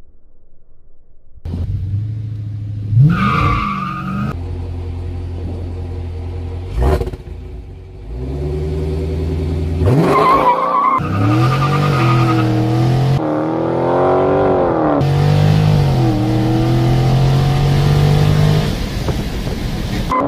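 Dodge Challenger Scat Pack's 392 (6.4-litre) HEMI V8 heard in short spliced clips. It idles with quick throttle revs, then accelerates hard, its pitch rising and dropping through the gears before settling into a steady cruise.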